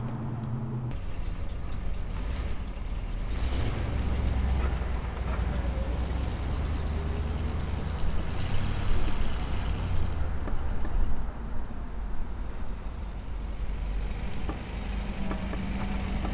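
Car engine running at low revs as the car drives slowly past: a steady low drone with a few gentle swells, and no hard revving.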